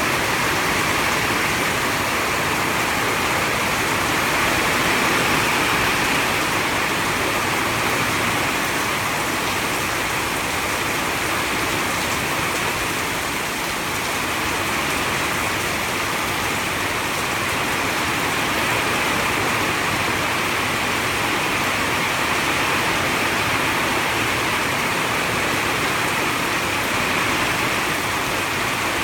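Heavy storm rain pouring down in a steady, dense hiss.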